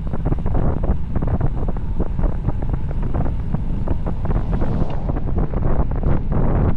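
Heavy wind buffeting the microphone, a steady low rumble broken by irregular gusts, as from a camera on a bicycle descending at speed.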